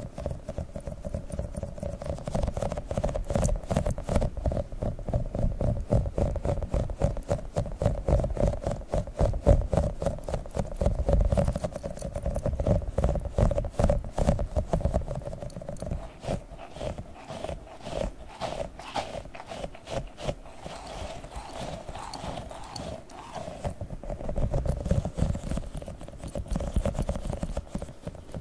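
Rapid, dense sticky clicks and peels from a tiny octopus toy being handled, over a steady hum.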